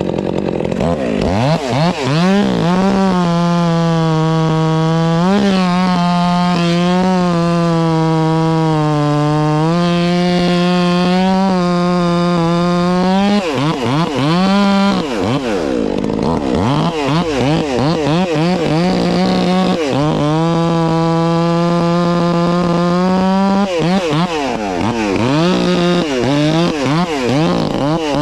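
Two-stroke chainsaw cutting a log at full throttle: it revs up, holds a steady high pitch through a long cut, falls back and revs again near the middle, then makes a second long cut and eases off near the end.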